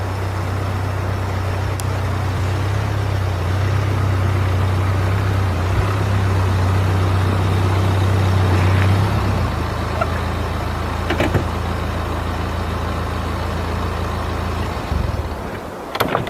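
A vehicle engine runs with a steady low hum. The hum eases down about nine seconds in and stops about fifteen seconds in.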